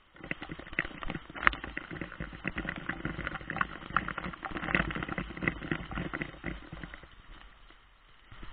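Heavy rain: dense, irregular pattering of raindrops striking close to the microphone. It starts suddenly and thins out near the end.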